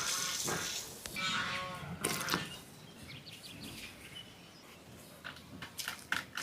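A farm animal calling: two drawn-out calls in the first two seconds, then short chirping ticks near the end.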